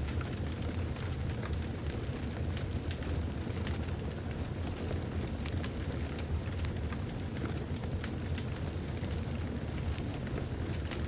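Wood fire burning in a fireplace: a steady low rumble with many small sharp crackles and pops scattered throughout.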